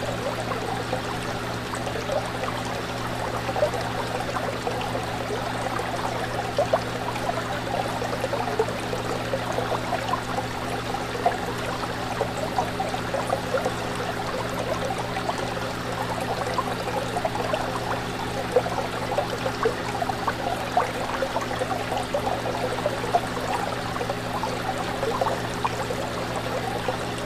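Fish tank water bubbling and trickling steadily, a dense patter of small splashes over a constant low hum from the tank's pump or filter motor.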